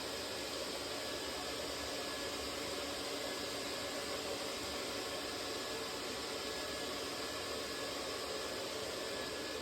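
A machine moving air, running steadily: an even rushing hiss with a faint high whine, typical of dryer vent cleaning equipment at work.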